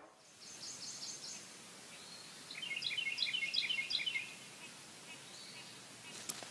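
Outdoor ambient hiss with birds chirping: a quick run of high chirps about half a second in, then a longer run of repeated chirps from about two and a half to four seconds. A single short click near the end.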